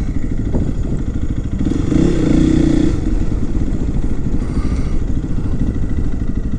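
Honda CRF300L's single-cylinder four-stroke engine running at low speed while the bike rolls along, its note lifting briefly about two seconds in.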